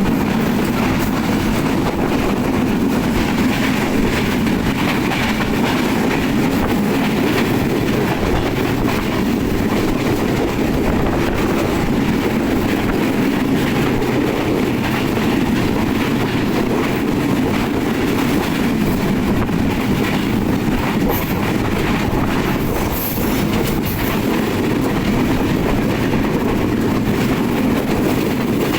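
Nilsagar Express passenger train running on the rails, a steady loud rumble that holds even throughout.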